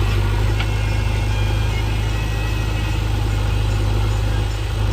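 Diesel engine of a JCB backhoe loader running steadily at idle, a constant low hum.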